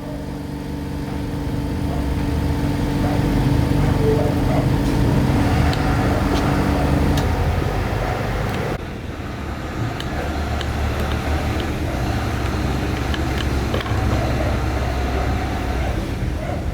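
An electric motor running steadily with a hum of several steady tones that builds over the first few seconds. About nine seconds in, the tones drop away and it goes on as a lower rumble.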